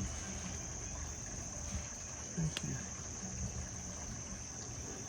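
Steady high-pitched insect chorus, like crickets trilling without a break, with a single faint click about halfway through.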